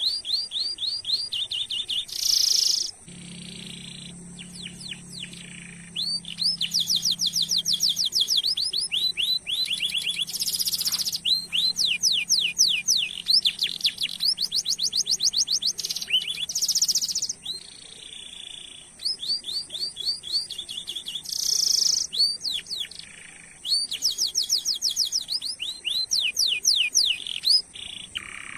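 Domestic canary singing a long, continuous song. It is made of fast trills of repeated down-sweeping notes, broken every few seconds by short harsh, buzzy rattles.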